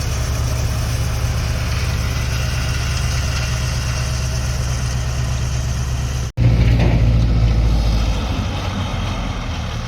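Tractor engine running steadily at a low speed. A sudden cut about six seconds in leads into a louder stretch of the engine.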